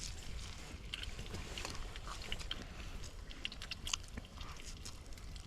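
A person biting into and chewing a maple-syrup pancake close to the microphone: a run of short, irregular mouth clicks over a low steady rumble.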